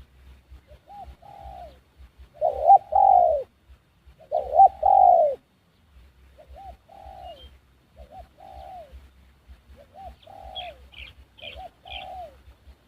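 Dove cooing in repeated short phrases, a few loud ones in the first five seconds, then softer ones, about one every second and a half. A few short high chirps from a smaller bird about ten seconds in.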